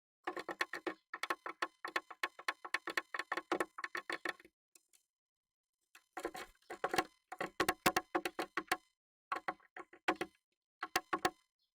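Rapid taps and knocks on the wooden walls and floor of a nest box as a Japanese tit moves and pecks inside it, the sound ringing hollow in the small box. It comes in quick clusters, with a pause of about a second and a half near the middle.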